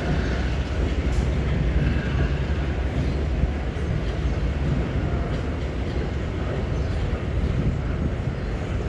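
Empty ore freight train departing, giving a steady low rumble that eases slightly about halfway through.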